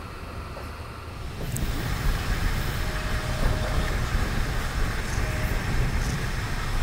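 Passenger train running: a steady rumble of wheels on the rails, heard inside a coach with open barred windows. The rush of noise gets louder about a second and a half in.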